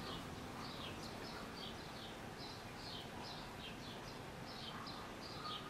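A small bird chirping faintly over a low hiss: short chirps that fall in pitch, about three a second.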